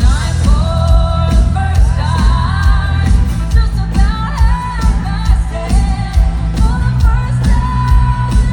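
Live pop music at a concert: a singer's held, gliding sung lines over a band with a steady, heavy bass beat.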